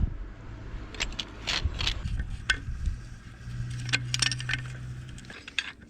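Metal tools and parts clinking and scraping as they are handled, a string of sharp separate clinks. A low steady hum sounds through the middle.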